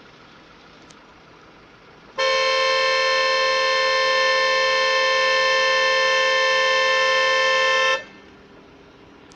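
Vehicle horn held down in one steady blast of about six seconds, starting about two seconds in and cutting off cleanly, over a faint idling engine.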